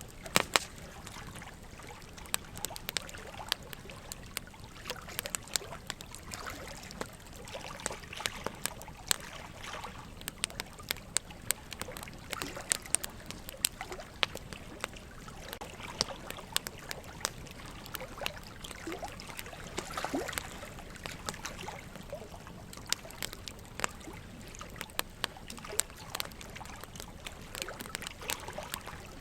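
Burning wood logs crackling and popping in a fireplace, with irregular sharp pops several times a second over a steady trickle of running water.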